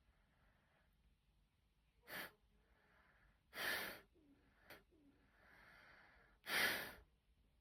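Faint breathing: a few short breathy puffs or sighs, about two, three and a half, and six and a half seconds in.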